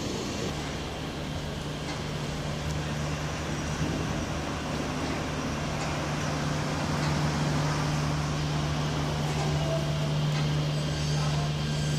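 Electric train at a station, a steady low hum and rumble that swells slightly over the first few seconds.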